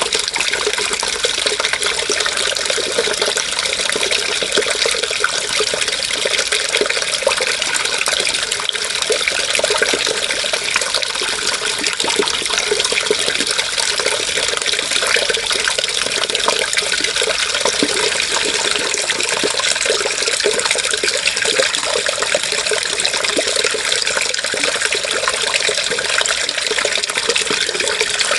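Running water, a steady, unbroken splashing rush.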